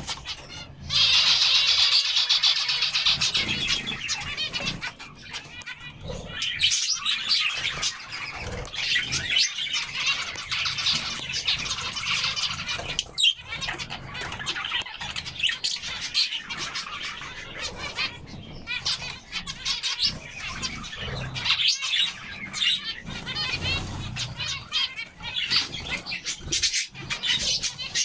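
A flock of birds calling at once: dense, overlapping chirps and squawks in a continuous chatter, loudest in the first few seconds.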